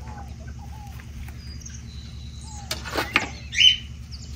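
Birds calling in short falling notes, one every half second or so, over a steady low hum. About three seconds in comes a burst of crackling rustle, then a short loud squeak.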